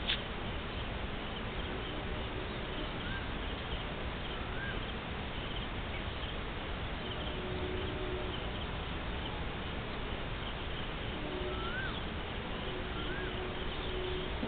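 Outdoor background of steady hiss with four short rising chirps scattered through it, bird calls from the surrounding field.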